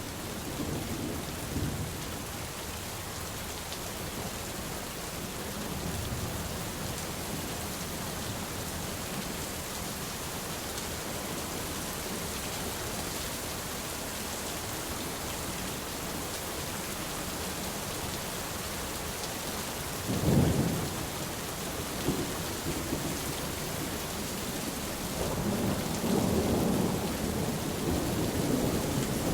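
Steady heavy rain with thunder. A sharp thunderclap comes about two-thirds of the way through, and a longer rolling rumble follows near the end.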